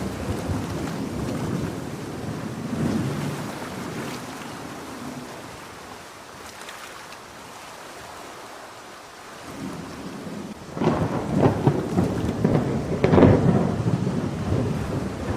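Thunder rumbling over steady rain: the rumble fades away toward the middle, then a louder rolling peal breaks about three-quarters of the way through.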